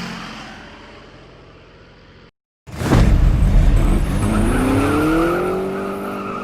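Car sounds: a passing sound fades away, then, after a short break in the audio, a car engine starts up loud with a deep rumble and revs up, its pitch rising steadily.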